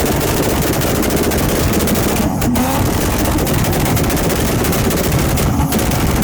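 Tuned car engine held on a two-step launch-control rev limiter, the exhaust firing a fast, continuous rattle of pops. The popping breaks off briefly twice, about two and a half and five and a half seconds in.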